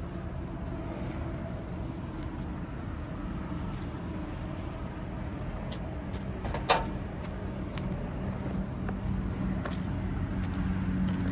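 Steady low vehicle rumble with one sharp clack about seven seconds in.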